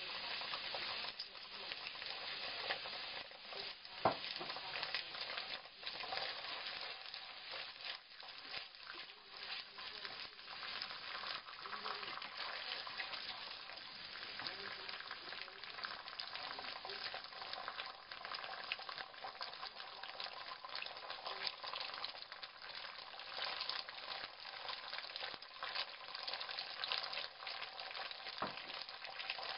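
Chili sauce frying in a hot nonstick pan with a steady crackling sizzle, stirred and scraped with a wooden spatula. A single sharp tap stands out about four seconds in.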